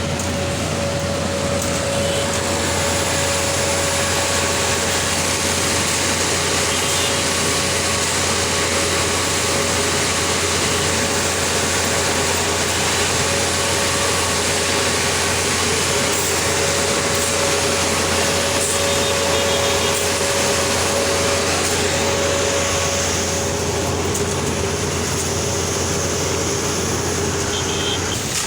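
ABJZ40C diesel concrete mixer pump running steadily while pumping concrete, a loud continuous machine noise with a steady mid-pitched whine over a low hum.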